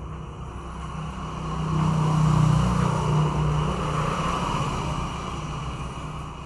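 A motor vehicle passing by: a low engine hum with road noise that swells to its loudest about two to three seconds in, then fades away.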